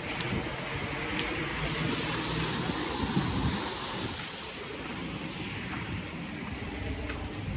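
Typhoon wind blowing in gusts, buffeting the microphone, with a low rumble that swells and eases and is strongest about three seconds in.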